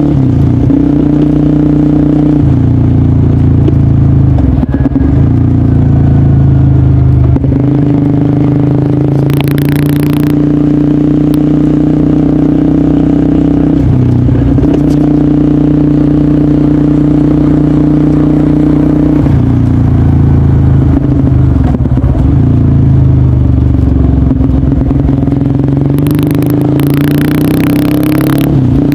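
Honda CBR150R's single-cylinder engine running through an aftermarket DST exhaust while riding. Its pitch drops and climbs again several times, with the throttle coming off and back on.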